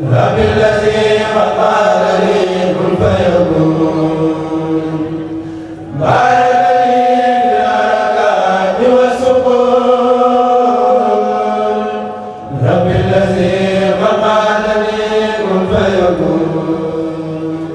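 A kourel chanting Arabic religious verse together, unaccompanied, in long melodic phrases with held notes. The chant comes in three phrases of about six seconds each.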